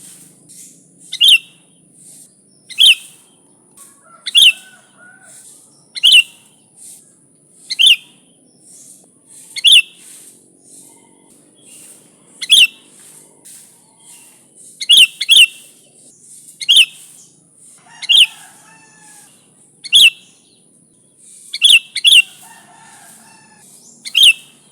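Sooty-headed bulbul (kutilang) calling. Loud, short, sharp calls come about every one and a half to two seconds, sometimes in quick pairs, with softer chattering notes between them.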